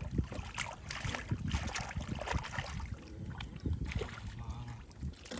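Irregular splashing and sloshing in shallow water: a quick, uneven series of short splashes over a low rumble.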